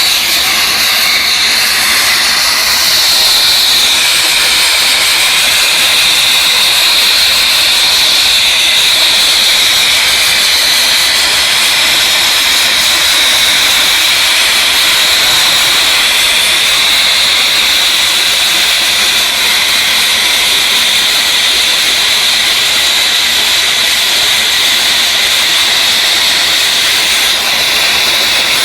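Abrasive blasting nozzle blasting paint off a helicopter's skin: a loud, steady hiss of compressed air and grit that runs without a break.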